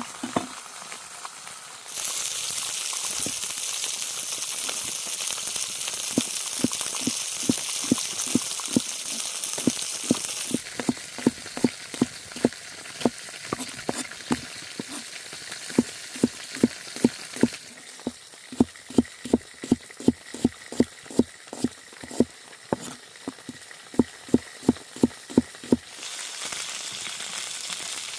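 Food frying in hot oil, a steady sizzle whose level steps up and down abruptly a few times. A run of sharp, regular knocks, about two or three a second, sounds over it through most of the stretch.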